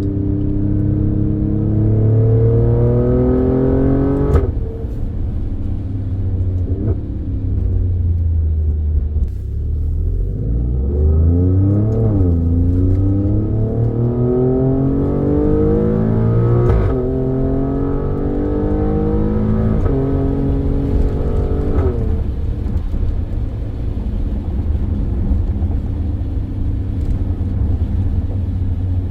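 Alfa Romeo Stelvio Quadrifoglio's twin-turbo 90-degree V6, breathing through K&N air filters, pulling hard through the gears: its pitch climbs and drops sharply at each upshift. It eases off for a few seconds in the middle and settles to a steady drone near the end.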